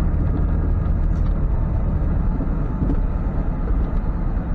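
Ford F-550 tow truck's engine running as it drives at low speed: a steady low drone with road noise.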